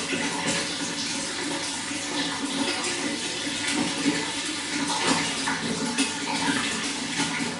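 Running water flowing steadily, a dense splashing rush with many small irregular splashes.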